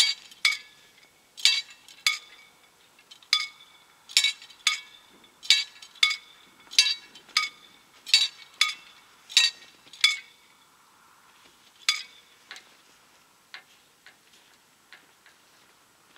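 Mechanical level-crossing bell striking in quick, uneven pairs with a bright metallic ring, the warning given as the mechanical gates are cranked down. The strikes stop about ten seconds in, followed by one more and then a few faint ones.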